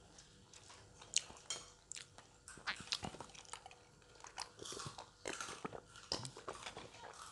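A person chewing and biting into crispy fried duck: a string of irregular short crunches.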